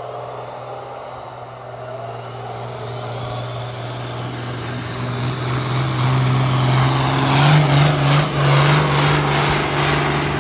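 Diesel pulling tractor's engine running at full throttle as it drags the sled down the pulling track, its pitch rising slightly and getting steadily louder, loudest about three quarters of the way through.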